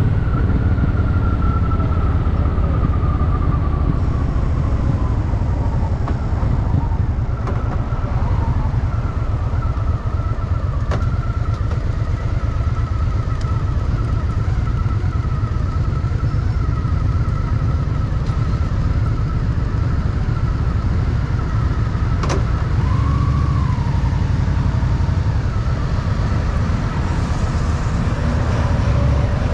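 Honda Shadow VT750's V-twin engine running steadily while riding, a continuous low rumble with a faint whine drifting in pitch above it. A single sharp click comes about three-quarters of the way through.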